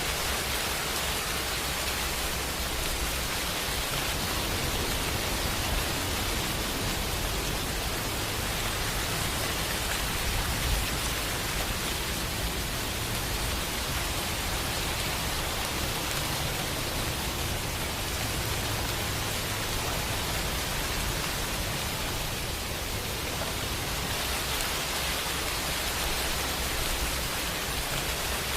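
Steady rain, an even hiss of many drops with no single drop or thunderclap standing out.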